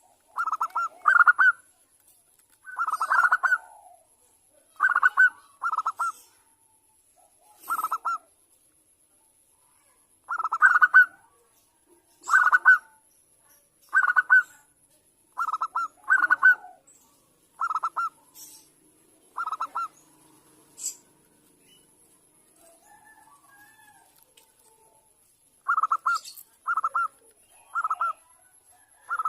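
Zebra dove (perkutut) giving short, rapid trilling coos, singly or in pairs every second or two, falling quiet for a few seconds before the calls resume near the end. The calls are offered as a female calling to males, used as a lure to get caged males to answer.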